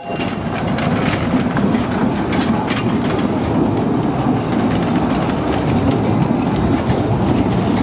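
Narrow-gauge steam train's passenger carriages rolling past close by: a steady rumble of wheels on the track, with scattered clicks.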